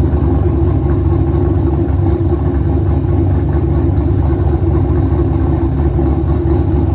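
2007 Ford Mustang GT's 4.6-litre V8, fitted with aftermarket camshafts, idling steadily less than a minute after a cold start.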